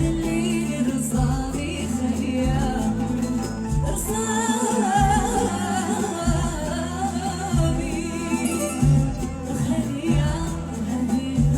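Moroccan popular song with a woman singing a wavering melody over band accompaniment and a steady low beat.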